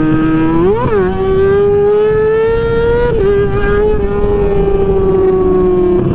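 A sport motorcycle's engine running hard at high revs. There is a quick throttle blip about a second in, then the pitch climbs slowly, drops abruptly about three seconds in, and eases down toward the end.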